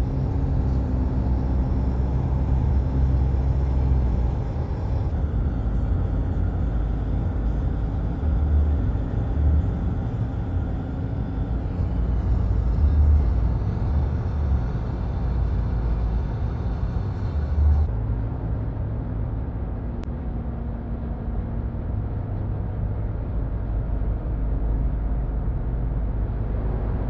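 Steady road and engine rumble of a vehicle driving at highway speed, heard from inside the cab.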